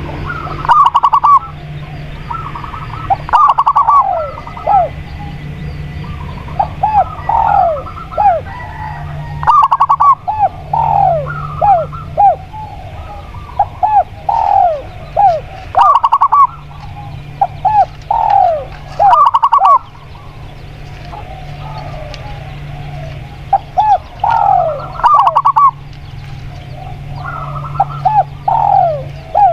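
Spotted dove and zebra dove cooing in repeated short phrases of quick, curved notes, a phrase every two to three seconds, over a steady low hum.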